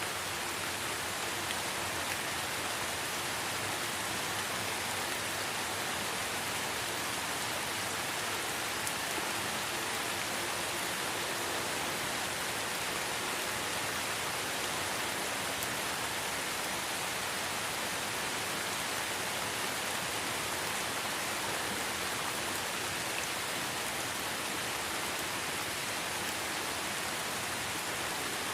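Light rain falling steadily on the forest, an even hiss of many drops with occasional faint single drop ticks.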